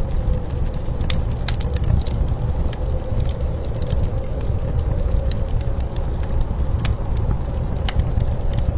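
Blizzard wind as a steady low rumble, with a faint steady tone in it. Scattered sharp crackles of a wood fire burning.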